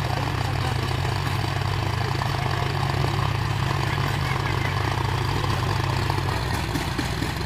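John Deere 5050 D tractor's three-cylinder diesel engine running steadily at an even speed.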